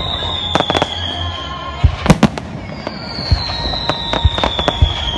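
Fireworks bursting: sharp bangs and crackles, with a cluster of loud cracks about two seconds in and smaller crackling after. Over the last two seconds a long whistle falls slightly in pitch.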